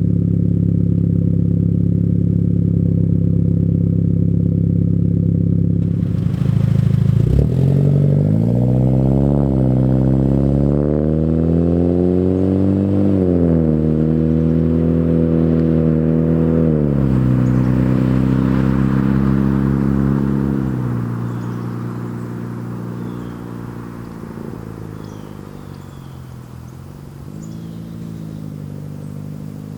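Hyundai Genesis Coupe 2.0T's turbocharged four-cylinder running through an aftermarket single-exit catback exhaust with an O2 housing and downpipe. It holds a steady note at first, then from about a quarter of the way in its pitch climbs and drops several times as it is revved or accelerated, before it settles and fades to a quieter level near the end.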